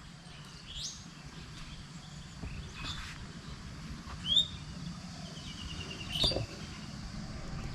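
A few scattered short bird chirps, with a quick run of high notes about six seconds in, over a low steady background rumble.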